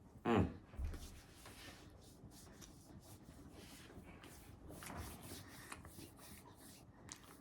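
A person eating a sandwich: faint chewing and rustling, with a brief vocal sound falling in pitch just after the start.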